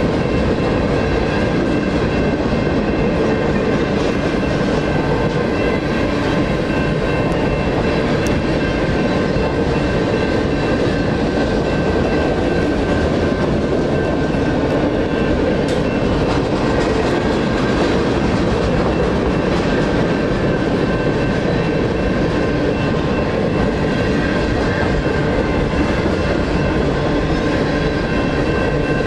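Freight train cars rolling steadily past a grade crossing, with the crossing's NEG electronic bell ringing throughout.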